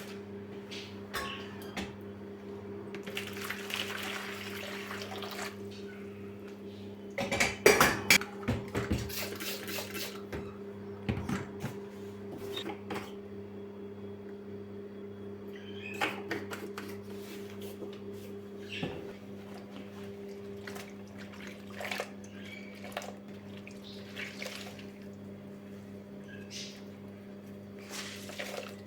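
Kitchen cleaning sounds: dishes and utensils clinking and clattering, with a short stretch of running water and the loudest clatter about seven to ten seconds in. A steady low hum runs underneath throughout.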